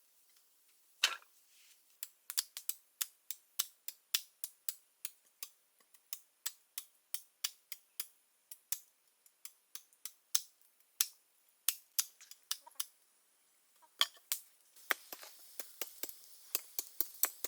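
A rapid series of sharp clicks or taps, about two to three a second, with a short pause and a faint hiss coming in near the end.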